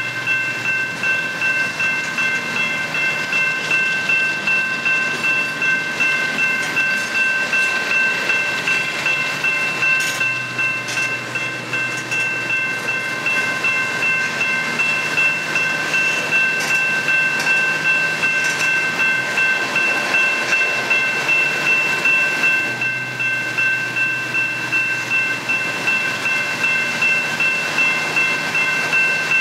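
Coal hopper cars of a freight train rolling past, their wheels clattering steadily over the rail joints. Over them a grade-crossing warning bell rings on without a break.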